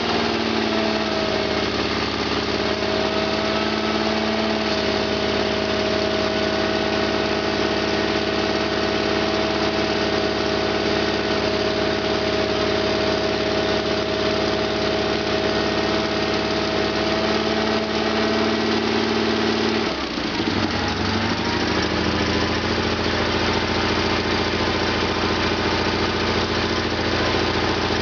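Suburban 18.6 garden tractor engine running just after a cold start, at half throttle on full choke. About twenty seconds in, the engine speed dips and then settles into a lower, steady run.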